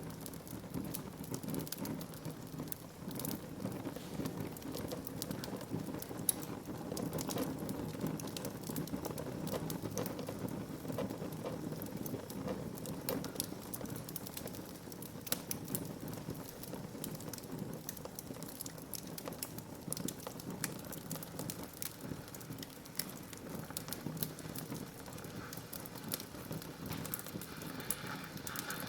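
Wood fire crackling in a fireplace: a steady low rush of burning with frequent small, irregular pops and snaps.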